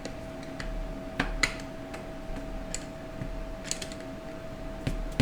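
Scattered light metallic clicks and taps of hand tools working a stuck 2-4 band loose inside a 4L60E transmission case, two sharper ones a little over a second in, over a faint steady hum.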